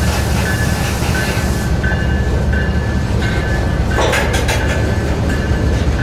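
Freight train of covered grain hopper cars rolling past close by: a heavy low rumble, a high steady tone that keeps cutting in and out, and a burst of sharp clicks about four seconds in.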